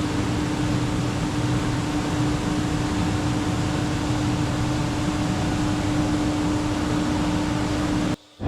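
Steady machinery noise inside an ice factory, a continuous hum with one held tone over an even wash of noise. It cuts off abruptly just before the end.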